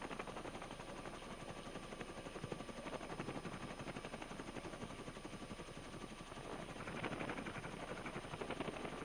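Police helicopter's rotor and engine noise heard from inside the aircraft: a steady, rapid fluttering pulse that swells slightly about seven seconds in.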